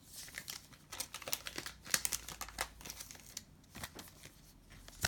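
A foil trading-card pack wrapper being torn open and crinkled in the hands, a quick run of sharp crackles.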